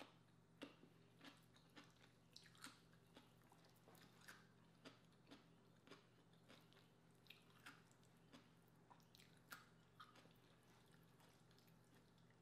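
Faint close-up chewing of lobster meat: soft wet mouth clicks and smacks about twice a second, thinning out near the end.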